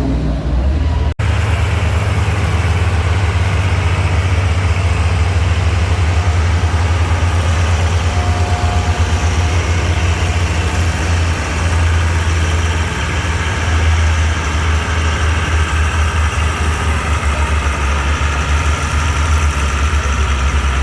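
Antique farm tractor engine running steadily with a heavy, low engine note. The sound cuts out for an instant about a second in.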